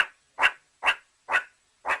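Dog barking in a steady run of short, sharp barks, about two a second, with silence between them.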